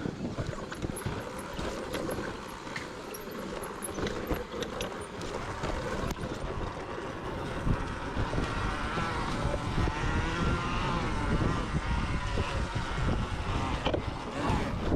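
Electric dirt bike riding a trail: a motor whine that wavers in pitch over a rough rumble of tyres, drivetrain and wind, getting somewhat louder about halfway through.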